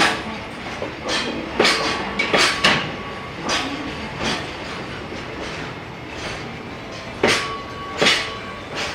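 Container freight wagons rolling past, their wheels clacking over the rail joints in scattered, often paired, sharp beats over a steady rolling rumble.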